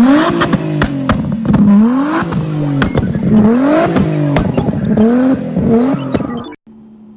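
Nissan 350Z's V6 engine revved hard again and again through a Tomei exhaust, its pitch climbing and dropping about once a second or so, with sharp pops and crackles. The sound cuts off abruptly about six and a half seconds in, leaving a low steady hum.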